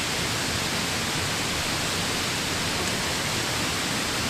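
Steady, even rushing noise that does not change or break, with no distinct events.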